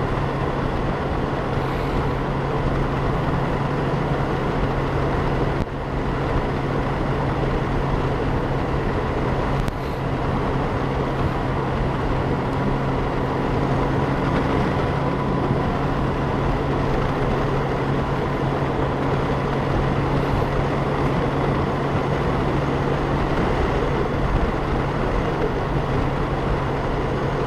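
Riding noise on a 2012 Honda Gold Wing, picked up by a helmet-mounted camera: the flat-six engine's steady hum under wind and road rush at an even cruising speed.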